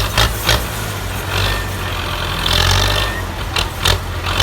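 Belarus 510 tractor's four-cylinder diesel engine running steadily with a low hum. Bursts of hissing noise come and go over it, along with a few sharp knocks near the start and near the end.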